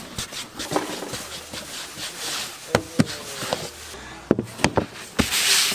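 Scattered knocks and rubbing of dough being worked on a wooden work table, with a short loud hiss near the end.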